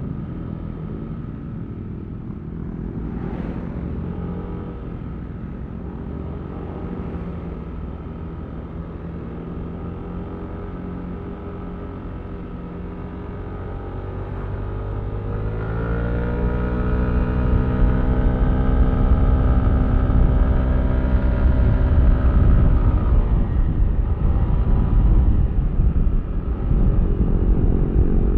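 Yamaha Aerox V3 scooter's single-cylinder engine running steadily at low speed, then revving up about fifteen seconds in as the scooter accelerates. It holds the higher engine speed, louder, before easing off slightly near the end.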